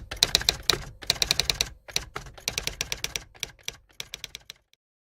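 Rapid, irregular clicking like keys being typed, several clicks a second. It starts with a sharp click, thins out and stops about four and a half seconds in.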